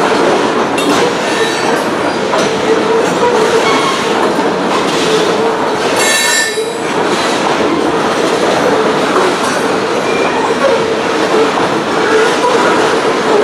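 Loaded covered-hopper grain cars of a freight train rolling steadily past, wheels running on the rails, with a brief high-pitched wheel squeal about six seconds in.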